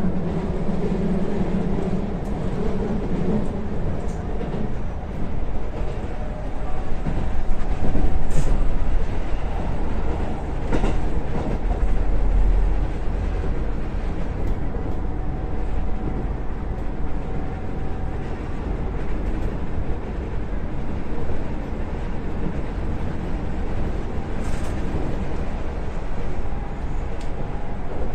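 Electric train running on rails: a steady rumble with a few sharp clacks from the wheels and track, and a brief deeper swell partway through.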